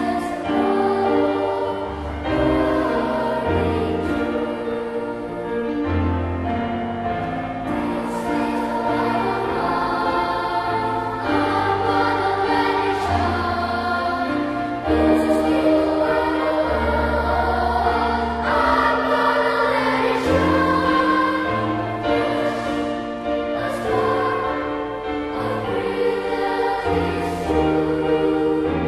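Children's choir singing in English with instrumental accompaniment.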